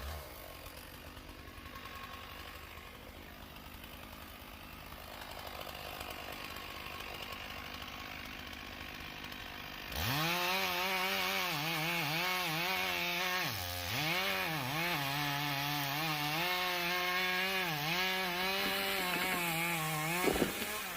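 Chainsaw cutting through a downed oak log. After a quieter first half, it comes in at full throttle about halfway in, its pitch dipping a few times as the chain loads up in the wood. It drops back off near the end.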